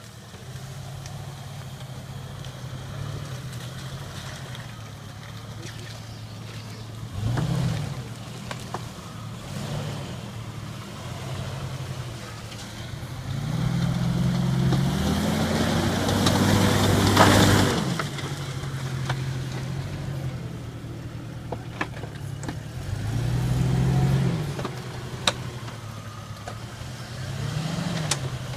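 1997 Jeep Grand Cherokee ZJ engine running at low revs while crawling through mud, revved up in bursts: briefly about seven seconds in, then a long rev with rising pitch from about 13 to 18 seconds that is the loudest part, and shorter revs near 23 seconds and near the end.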